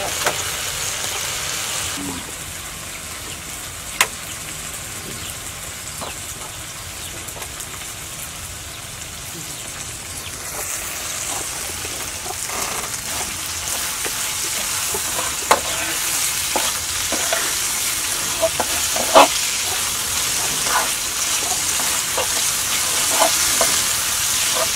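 Insects sizzling in hot oil in a wok, with a steady frying hiss that grows a little louder partway through. A metal ladle stirs them and clinks sharply against the wok a few times, mostly in the second half.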